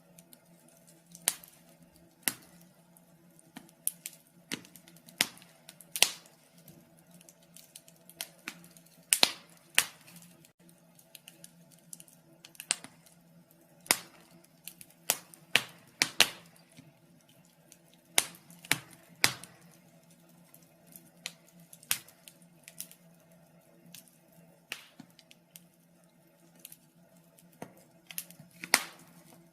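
Wood fire crackling in a fireplace: irregular sharp pops and snaps, unevenly spaced, over a faint steady hum.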